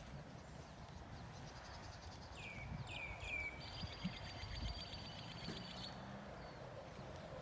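A bird calling: three quick downward-sweeping chirps about two and a half seconds in, then a high buzzing trill lasting about two seconds, over faint outdoor background noise.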